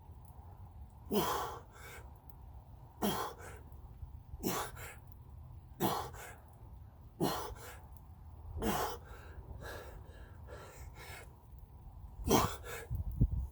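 A man's hard, forceful exhalations, one with each push-up rep, about every second and a half, with a longer pause before the last two near the end. A steady low rumble runs underneath.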